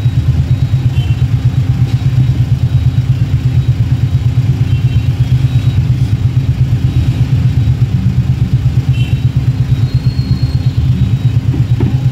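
Two-wheeler engine idling close by with a steady, rapid, even pulse, amid stopped traffic; a few brief faint high beeps come now and then.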